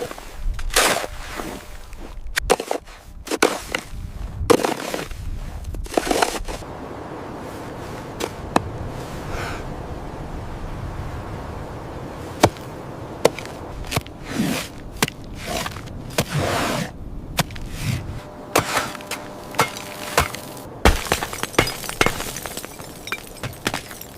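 A series of sharp cracks and knocks at irregular intervals, a few of them louder, over a steady background hiss.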